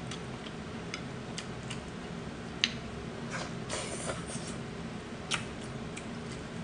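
Close-miked eating sounds of someone chewing a mouthful of noodles: scattered wet clicks and lip smacks, the sharpest about two and a half seconds in, with a brief soft hiss of movement around four seconds.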